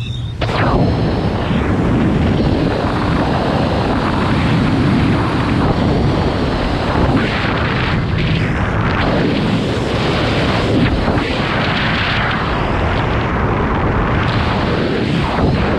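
Caterpillar bulldozer's diesel engine running steadily, with wind buffeting the microphone.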